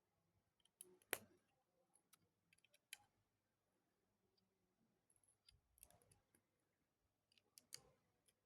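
Faint, scattered clicks of plastic Lego pieces being handled and pressed together, the sharpest about a second in and a few more near the end.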